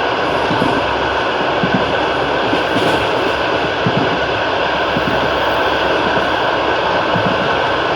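Russian long-distance passenger train running at speed: a steady rolling rumble and hiss with irregular low knocks of the wheels on the rails.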